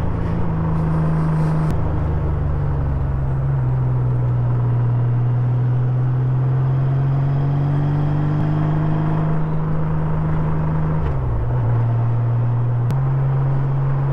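Honda Gold Wing touring motorcycle's engine running steadily at road speed, with wind and road noise. The engine note climbs slowly, dips about eleven seconds in and picks back up about two seconds later.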